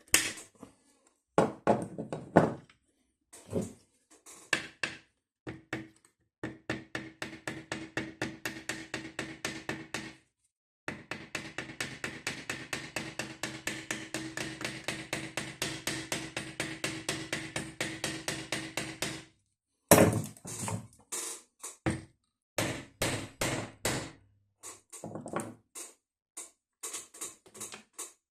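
Hammer tapping in long, quick runs of light blows, about six a second, with a steady ringing under them. Louder single knocks come before and after the runs.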